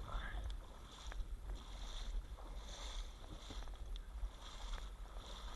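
Wind rumbling on the microphone, with a faint higher hiss that swells and fades about once a second.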